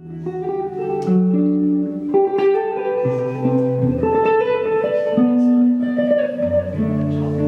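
Guitar-led band music: picked and strummed guitar notes over held low bass notes, the chords changing every second or so.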